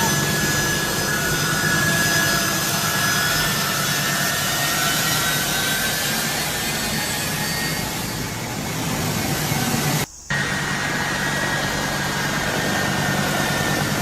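Jet engines of a large military transport plane running at high power: a steady, loud roar with a high whine on top. About ten seconds in the sound drops out abruptly for a fraction of a second, then the same roar resumes.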